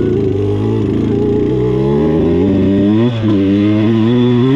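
Two-stroke dirt bike engine accelerating hard under the rider, its pitch climbing, dropping sharply at an upshift about three seconds in, then climbing again.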